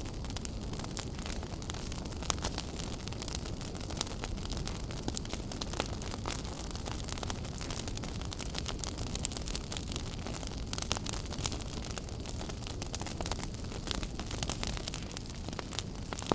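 Wood fire crackling in a fireplace: a steady low rumble of the burning fire with frequent sharp pops and snaps scattered throughout.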